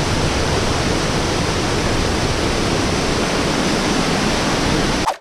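Waterfall: a steady, loud rush of falling water that cuts off abruptly just before the end.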